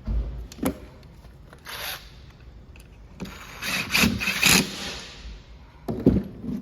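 Tools and metal or plastic parts being handled: a thump, a click, a short scrape, then a longer rattling scrape, and two knocks near the end.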